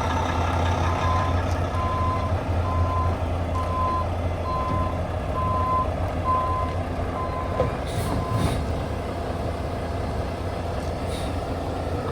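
Mack MP8 diesel in a heavy dump truck running steadily at low revs, with a reversing beeper sounding about nine evenly spaced beeps, roughly one a second, that stop after about eight seconds. Two short hisses come near the end of the beeping.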